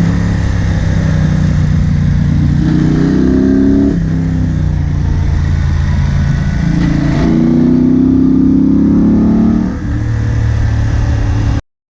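Moto Guzzi Bellagio's V-twin engine heard from the rider's seat, accelerating twice, with the pitch rising and then dropping back each time. The sound cuts off abruptly near the end.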